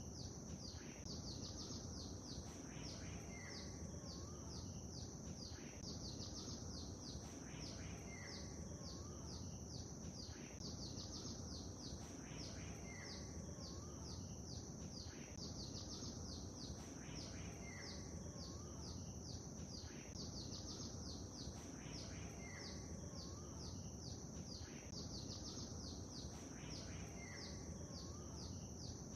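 Birds chirping in short, repeated phrases that come back about every two and a half seconds, over a steady background wash of noise.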